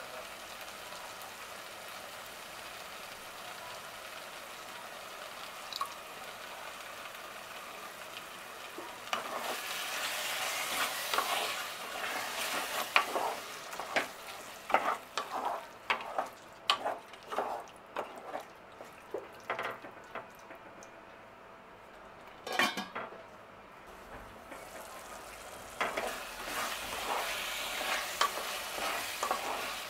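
Food sizzling in hot oil in a cooking pot while a spoon stirs, scraping and clinking against the pot. The sizzle grows louder about a third of the way in. It eases off for a while, with a few knocks and one louder clatter, then comes back strongly near the end.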